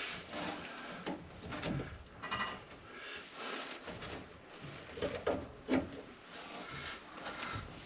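Scattered light clicks, scrapes and knocks of plumbing parts being handled and fitted together by hand, with a few brief squeaks.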